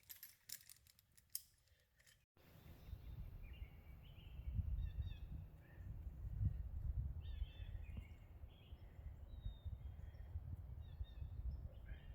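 Birds chirping over a low, steady rumble. This follows about two seconds of fast, light clicking that cuts off abruptly.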